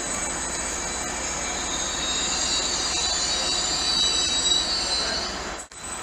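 Greater Anglia Class 755 passenger train moving at low speed along the platform, with a high metallic wheel squeal over a steady rumble. The squeal grows louder in the second half and cuts off suddenly near the end.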